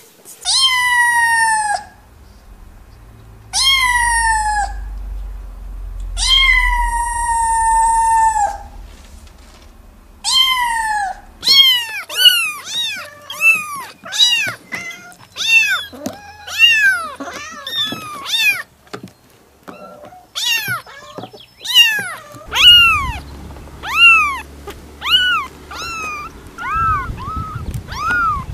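Kittens meowing: first four long, high meows that slide down in pitch, each one to two seconds long, then from about eleven seconds in a busy run of short, high mews from several kittens at once, overlapping at about two a second.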